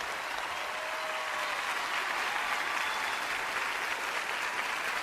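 Studio audience applauding and cheering steadily at the reveal of a card trick.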